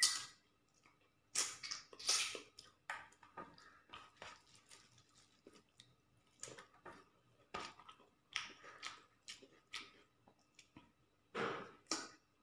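A man chewing and smacking mouthfuls of rice and chicken curry eaten by hand: close, wet, irregular mouth sounds in uneven bunches, the loudest near the end.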